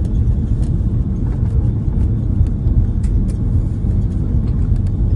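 Steady low rumble of an Airbus A330 heard inside the passenger cabin during landing, with light rattling clicks scattered through it.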